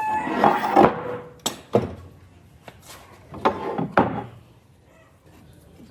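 Wooden pieces being handled: a few sharp knocks and scraping rubs, in two clusters about three seconds apart. A rooster's crow trails off at the very start.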